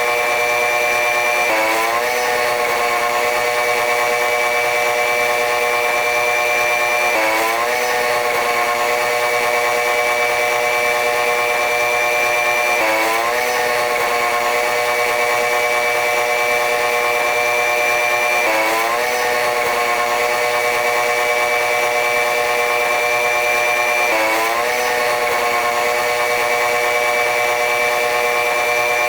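Train running noise from a diesel-hauled regional train, sped up eightfold, giving a steady high buzz with many overtones. Every five to six seconds the pitch drops suddenly and sweeps back up, then slowly creeps higher.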